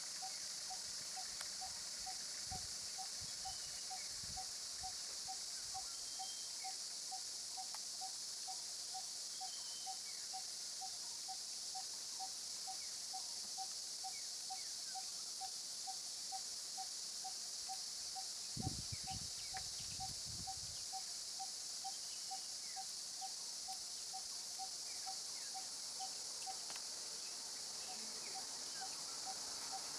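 Jungle insect chorus: a steady high buzz, with a short note repeated about two to three times a second that stops near the end. Low thuds come in briefly twice, the louder one about two-thirds of the way through.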